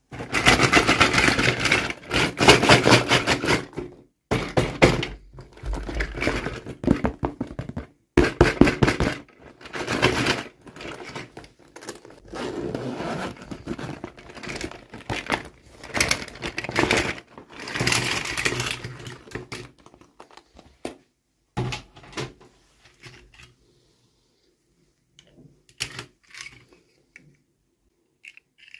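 Toy packaging being opened and handled by hand: dense runs of rapid crackling, scraping and clicking for about twenty seconds, then a few scattered knocks and taps.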